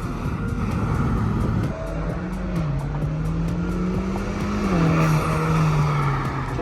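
A car engine running with tyre noise, mixed with music.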